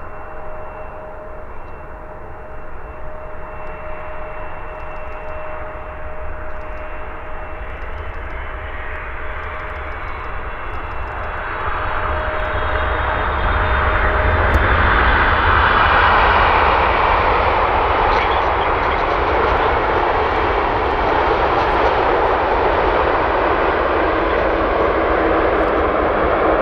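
Jet airliner arriving to land and passing the microphone. A steady engine whine is heard over the first half, then the rushing engine noise swells to its loudest about halfway through and stays loud.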